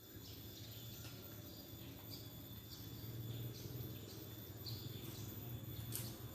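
Faint outdoor ambience: insects chirping steadily over a low, steady hum, with scattered light clicks.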